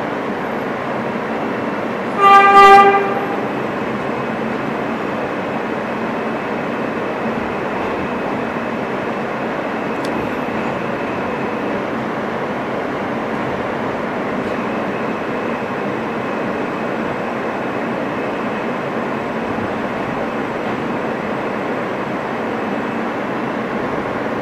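An R160 subway car running along the track, heard from inside the car as a steady rumble and hiss. About two seconds in there is one loud, short blast of a train horn, under a second long.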